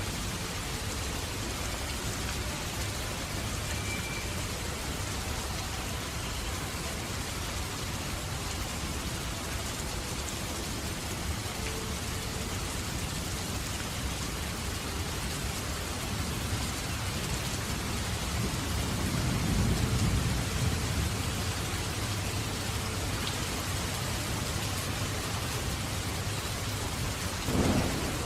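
Steady heavy rain falling, with a low roll of thunder swelling and fading about two-thirds of the way in, and a short sharp crack of thunder near the end.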